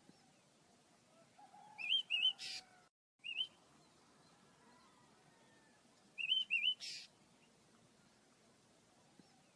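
The owner's pet birds chirping. Twice, about four seconds apart, a quick pair of warbled chirps is followed by a short harsh rasping note.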